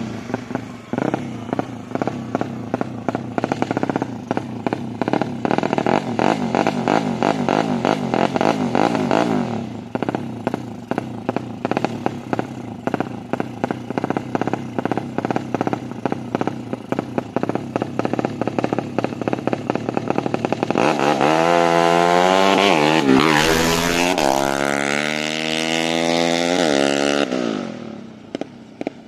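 Tuned Yamaha Jupiter 130 cc single-cylinder four-stroke underbone engine on an open racing exhaust, running with a choppy, pulsing note for the first twenty seconds. It then accelerates hard, the pitch climbing and dropping several times as it shifts up through the gears, and fades away near the end.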